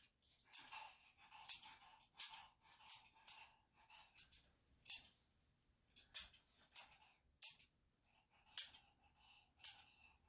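Grooming scissors snipping through a dog's coat: about a dozen crisp cuts at an uneven pace, roughly one every half second to a second.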